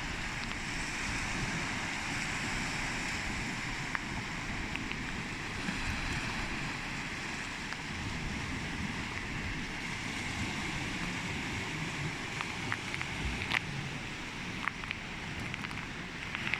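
Sea waves washing onto the shore in a steady surf, with wind buffeting the microphone.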